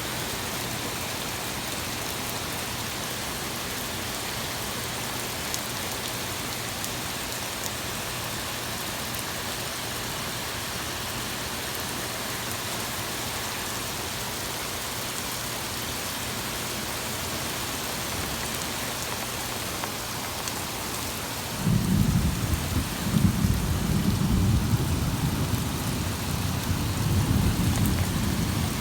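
Torrential rain pouring steadily. About two-thirds of the way through, a long rumble of thunder breaks in suddenly and rolls on, swelling and fading, to near the end.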